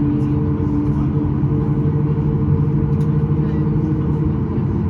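Boeing 737 MAX 8 jet engines heard from inside the passenger cabin: a steady rumble with a few held low hums.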